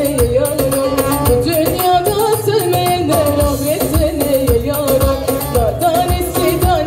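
Turkish folk music played live: an ornamented melody line that slides and turns in pitch, over a steady drum beat.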